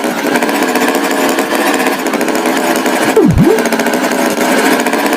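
Cartoon tractor engine sound effect: a steady, rasping motor buzz, with a quick swooping tone that dips and rises again a little past the middle.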